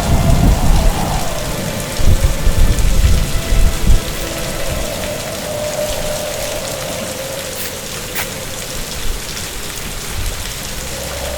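Heavy rain hissing steadily, with deep thunder rumbling through the first few seconds and then dying away.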